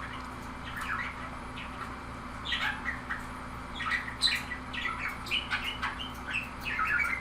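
Pet budgerigar chattering and warbling in quick, scratchy chirps, sparse at first and busier from about two and a half seconds in, over a steady low electrical hum.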